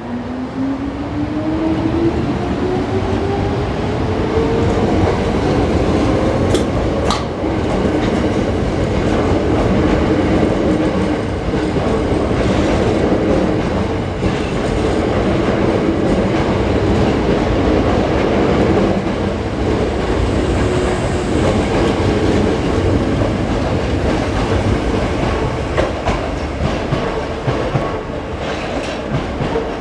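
Hankyu electric train pulling away and accelerating, its motor whine rising in pitch over the first few seconds. The cars then pass with a steady rumble and wheels clacking over the rail joints.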